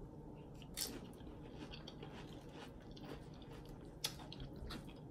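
A person quietly chewing a mouthful of soft burrito-bowl food, with a few short clicks, one about a second in and one near four seconds.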